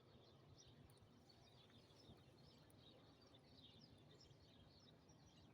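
Faint, busy chirping of small songbirds: many short high chirps over a low steady background rumble.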